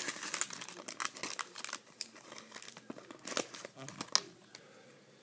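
Wrapper of a hockey trading-card pack being torn open and crinkled by hand. The crackling is dense for the first couple of seconds, then comes in sparser sharp crinkles and dies down near the end.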